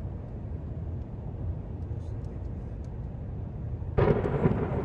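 Thunderstorm: a low steady rumble, then a sudden loud crack of thunder about four seconds in.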